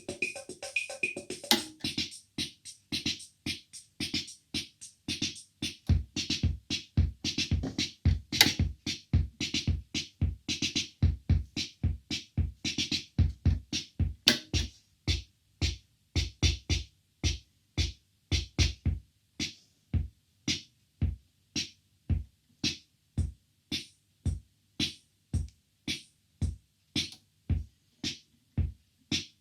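Roland CR-68 CompuRhythm analogue drum machine playing its rhythm patterns: steady electronic bass drum and hi-hat hits. The pattern changes a few times, thinning out to a sparser beat about halfway through.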